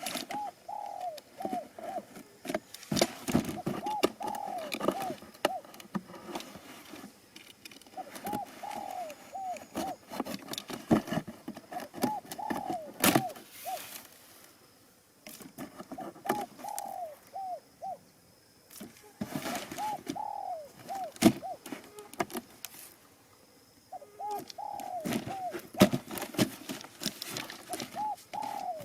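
Pigeons cooing: short runs of rising-and-falling coo notes repeated every few seconds, mixed with scattered knocks and rustles.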